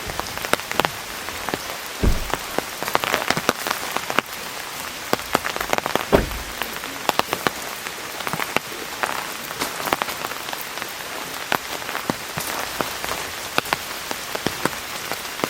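Heavy rain pouring down: a steady hiss dense with sharp drop ticks, and two heavier low thuds about two and six seconds in.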